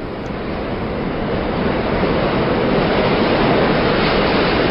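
Train sound effect: the steady rushing rumble of a moving train, growing louder over the first couple of seconds and then holding steady.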